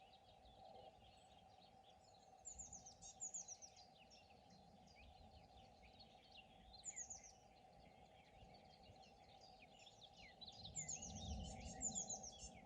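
Songbirds singing in phrases of quick, falling high notes, loudest about two and a half seconds in, again around seven seconds, and near the end. Under them runs a faint steady hum, with a low rumble near the end.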